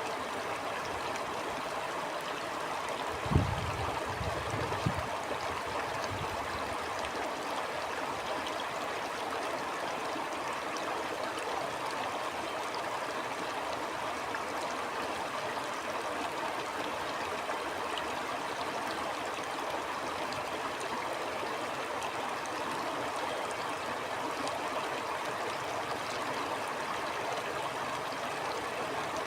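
A stream flowing steadily, a constant rush of water. Two short low thumps come about three and five seconds in.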